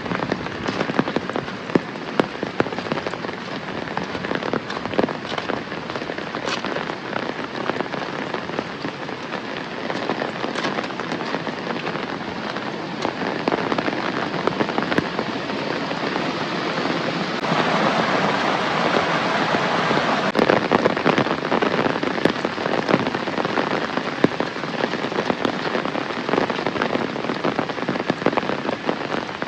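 Heavy rain falling steadily, with many separate drop hits standing out, growing heavier for a few seconds a little past halfway through.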